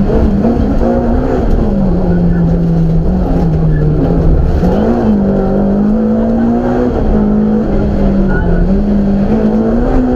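BMW M3 rally car's engine heard from inside the cabin, driven hard on a stage: its pitch drops about a second and a half in, holds, then climbs again about five seconds in as the driver works through the gears, over heavy road and drivetrain noise.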